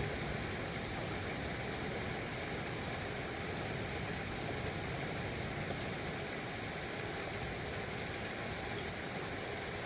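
Steady rain falling, an even, unbroken noise with no breaks.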